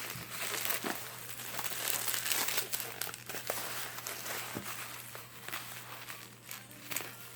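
Bubble wrap being handled and pulled apart by hand, a run of irregular crinkles, crackles and small tears.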